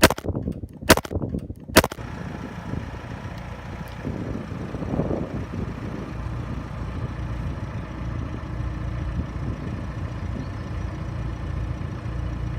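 Diesel car engine running, heard at its exhaust, with a brief rise around five seconds in. The fake turbo whistle fitted to the tailpipe makes no audible whistle on this big exhaust. A few sharp knocks come in the first two seconds.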